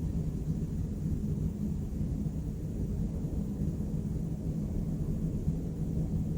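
City background noise: a steady low rumble of traffic with a faint hum running through it, no single vehicle or event standing out.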